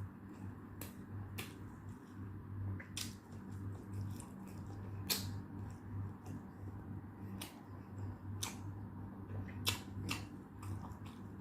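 Close-up eating sounds: irregular soft clicks and smacks of chewing and of utensils on a plate, a few every couple of seconds, over a steady low hum.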